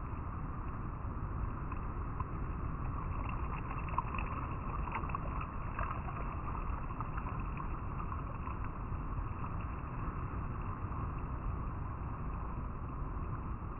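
River water flowing and rippling over rocks, a steady rush with a few brighter splashes about four to six seconds in.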